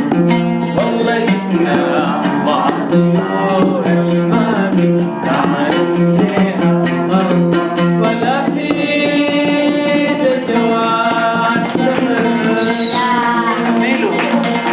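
Live band music with a steady drum beat, plucked strings and long held melody notes.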